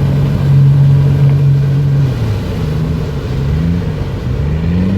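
Small fishing boat's engine running: steady for about two seconds, then its pitch drops and wavers up and down as the throttle changes, climbing again near the end.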